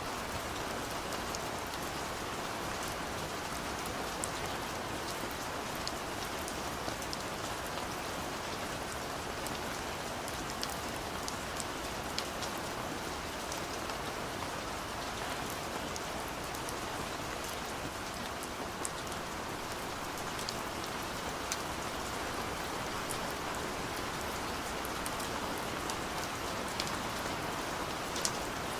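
Steady rain falling, a constant hiss with scattered sharper drips and patters standing out.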